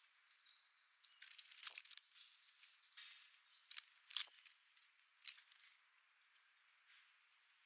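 Chickadees pecking and cracking seed at a bird feeder: scattered sharp taps and clicks, with a quick cluster about a second and a half in and two sharp taps around four seconds in.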